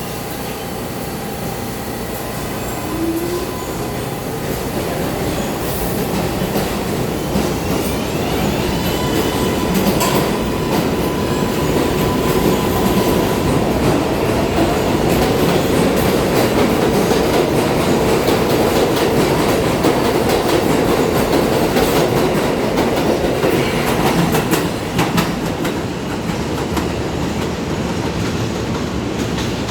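New York City subway train running through the station, growing louder toward the middle and then easing off, with steel wheels clicking over rail joints and some wheel squeal.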